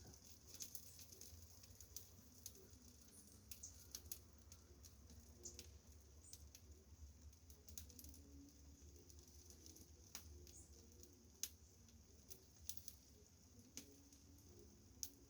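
Faint, irregular light taps and clicks of small birds pecking seed off an old barbecue, over a faint steady high hiss.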